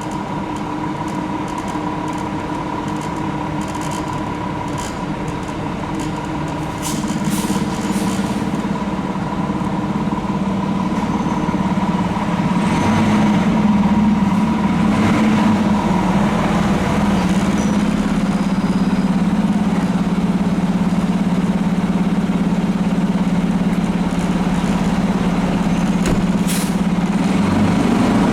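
Seagrave Attacker HD fire engine's diesel engine running and growing louder, strengthening sharply about a quarter of the way in. Short air hisses, like air-brake releases, come near that point and again near the end.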